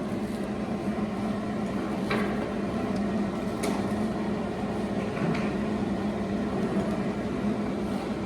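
Steady mechanical hum with a strong low tone, broken by a few faint clicks.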